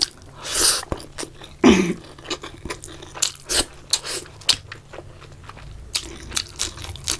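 Close-up mouth sounds of eating by hand: chewing a mouthful of rice and curry, then biting into crispy fried brinjal pakauda, with irregular wet clicks and crunches throughout.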